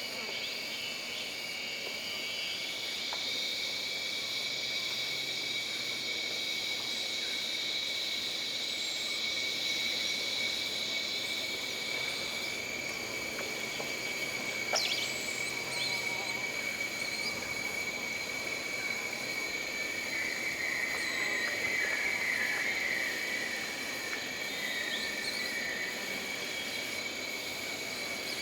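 Jungle ambience of insects: several steady high-pitched drones and trills run throughout. A louder buzzing band comes in a few seconds in and fades out about halfway through, and a pulsing trill sounds later on. A few brief chirps are scattered through it.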